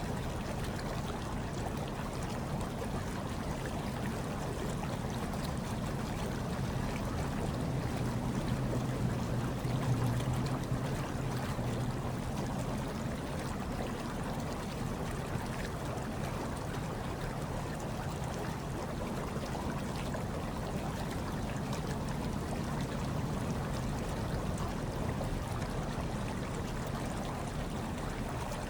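Hot tub water bubbling and churning steadily, with a low rumble underneath that swells slightly about ten seconds in.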